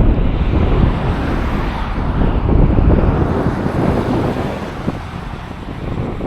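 Wind gusting against an outdoor microphone: a loud, rough low rumble that swells and eases, dropping off a little after four seconds in.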